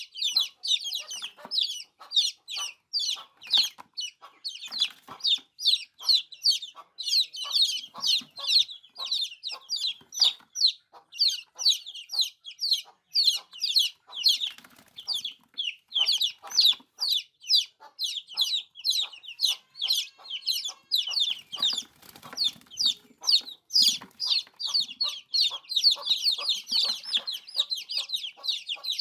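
Many baby chicks peeping together: a dense, unbroken chorus of short, high-pitched cheeps, each falling in pitch, several a second.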